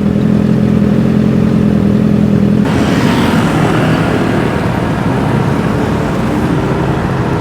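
Motorbike engine running steadily under the rider. About a third of the way in, the sound changes abruptly to a louder rush of wind and road noise.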